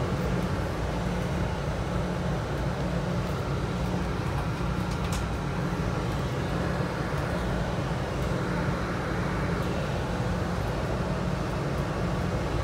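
Steady low rumble and hum inside a passenger train car, with a faint short click about five seconds in.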